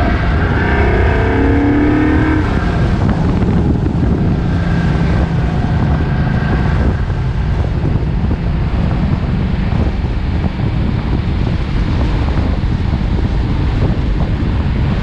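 Car engine revving, its pitch rising and falling for the first couple of seconds, then settling into a steady low rumble.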